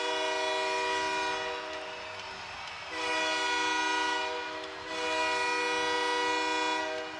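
Arena goal horn, a multi-note train-style horn chord, sounding in three long blasts to celebrate a home-team goal.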